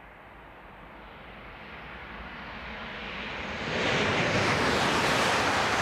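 E8 series Shinkansen train approaching, its running noise growing steadily louder, then jumping to a loud, steady noise about four seconds in as the train draws close.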